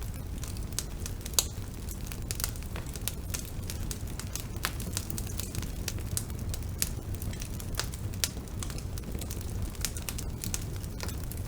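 Bonfire burning: a steady low rumble of flames with irregular sharp crackles and pops from the burning wood, the loudest pop about a second and a half in.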